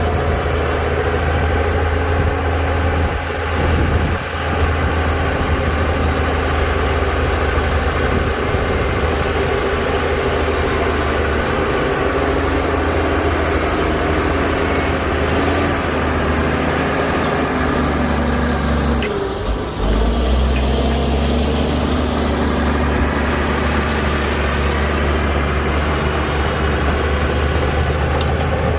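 Heavy diesel earthmoving machinery running steadily under work, the engine's low drone unbroken apart from a brief dip about two-thirds of the way through.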